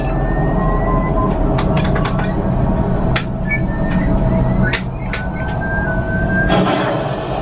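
Millennium Falcon: Smugglers Run ride's cockpit sound effects: a steady low engine rumble under electronic beeps, clicks and rising sci-fi tones, with a rushing hiss about six and a half seconds in.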